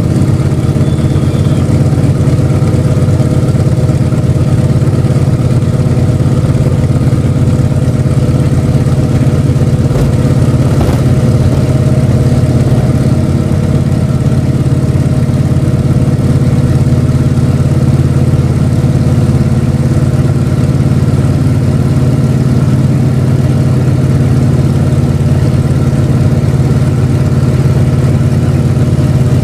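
Antonov An-2's nine-cylinder radial engine and propeller running steadily and loud, at takeoff power.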